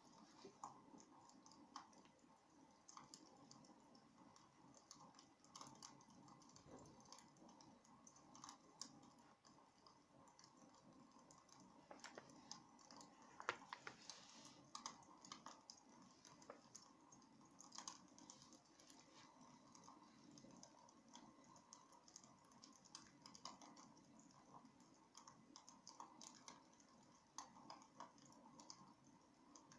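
Wood fire crackling in a fireplace: faint, irregular pops and snaps over a soft steady hiss, with one sharper pop about halfway through.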